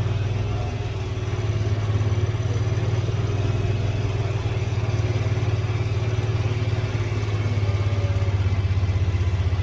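Engine of a slowly driven vehicle, heard from on board: a steady, evenly pulsing low engine drone with a slight dip about a second in.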